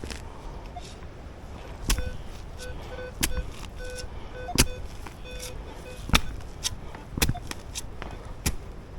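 A digging tool strikes hard, packed ground about six times, a blow every second or so. In the middle a metal detector sounds a pulsing beep, answering a target in the hole.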